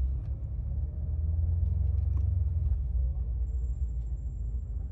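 Low, steady rumble of a BMW M5 Competition's twin-turbo V8 and drivetrain as the car rolls slowly at low revs.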